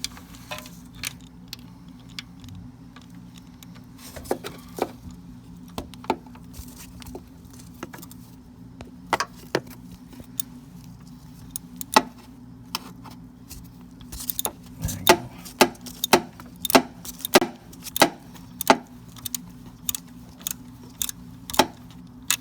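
Ratchet and socket working the front Torx bolt on a Mercedes-Benz B200's timing chain tensioner: scattered sharp metallic clicks and clinks, which settle into a steady run of about two clicks a second in the second half, over a low steady hum.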